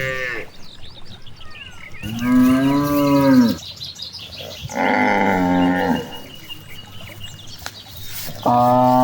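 Cows mooing: one call tails off right at the start, then two long moos of about a second and a half each, and another begins near the end. Small birds chirp faintly between the calls.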